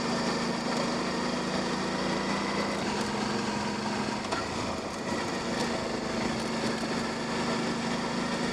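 Suzuki V-Strom 650's V-twin engine running steadily at low speed on a dirt two-track, its pitch shifting slightly a few times, over a steady haze of wind and tyre noise.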